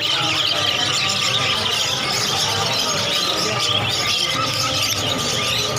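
A dense, continuous chorus of many caged birds chirping, squawking and squealing over one another, with a low crowd murmur underneath.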